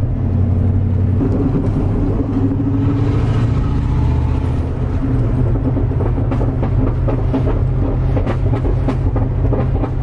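Straight-piped 5.2 L (318) V8 of a 1999 Dodge Ram with no muffler, running with a loud, deep drone as heard inside the cab. Over the second half, short pops or crackles break in.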